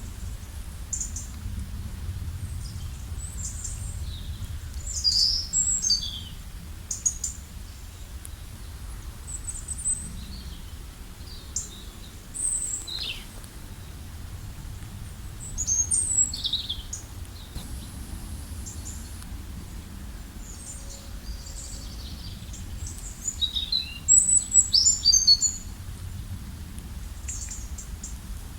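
Several songbirds chirping and trilling in short, high calls, with louder clusters about 5 seconds in, around 16 seconds and near 24–25 seconds, over a steady low rumble.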